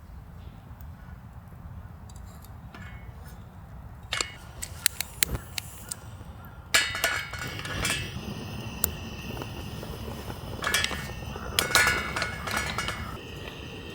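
Camp dishes and utensils clinking as they are handled. First comes a quick run of small clicks, then louder clinks that ring briefly, over a low steady rumble.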